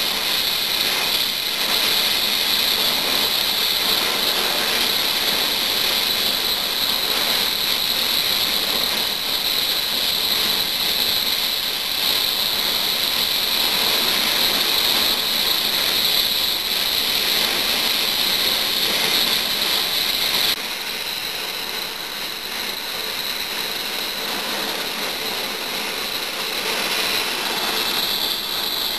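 Eurocopter AS365 Dauphin helicopter running with its turbines whining on a steady high note over the rotor's mechanical chatter. About two-thirds of the way through, the sound abruptly becomes a little quieter and the whine changes pitch.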